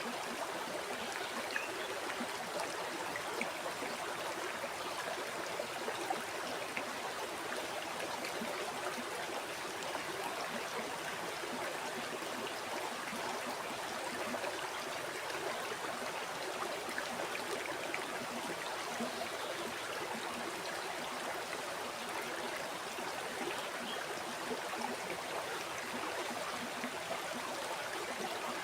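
River water flowing steadily over rocks, an even rushing and babbling with small splashes and gurgles.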